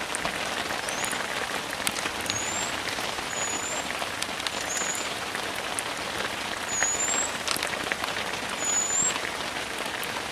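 Steady rain with scattered sharp drips, and a short high chirp that rises slightly, repeating about once a second.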